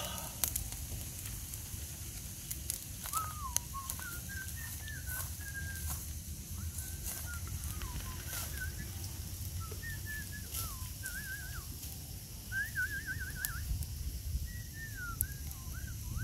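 Wild birds calling in short whistled notes that rise and fall, with a quick trill about three-quarters of the way through, over a steady low rumble and scattered crackles from the wood fire.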